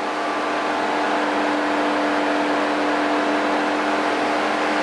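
Dodge Magnum's engine running steadily, a hum of several held tones over a rushing noise, building slightly in the first second.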